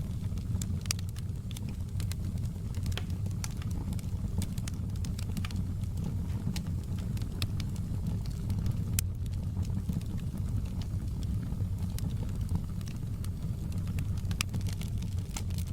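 Wood fire burning in a fireplace: a steady low rumble with frequent sharp, irregular crackles and pops of burning logs.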